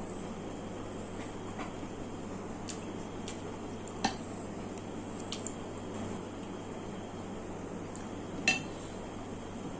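Cutlery clinking against a plate or bowl a few times during a meal, over a steady background hiss. The two loudest clinks come about four seconds in and near the end.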